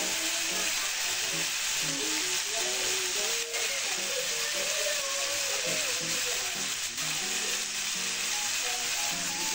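Tofu cubes and onions sizzling steadily in a hot frying pan.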